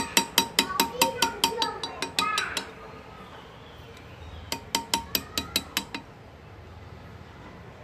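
Hand engraving: a small hammer tapping a graver into metal in quick, even strikes, about six or seven a second, each with a short metallic ring. A run of strikes lasts about two and a half seconds, then after a pause a shorter run follows.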